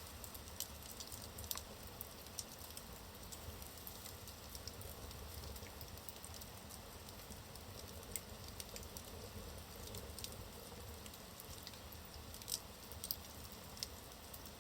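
Wood fire burning in a fireplace: a faint steady hiss with irregular crackles and sharp pops of the burning logs, a few louder pops near the end.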